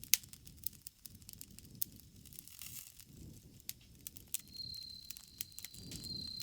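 Campfire crackling, with irregular sharp pops over a soft low rush of flames. A thin, steady, high insect trill comes in a little over four seconds in.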